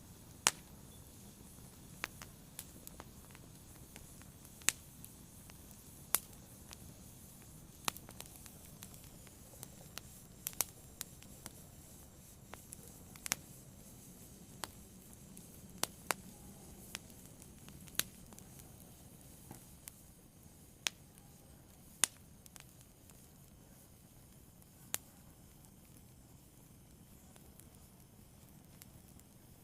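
Fire burning with sharp, irregular crackles and pops over a faint low hiss, the pops thinning out in the last several seconds.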